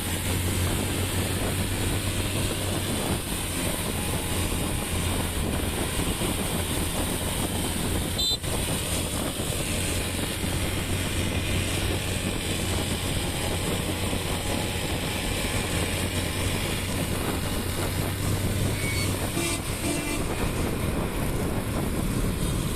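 Motorbike engine running at a steady pace while riding, with a low hum under a constant rushing noise of wind and road.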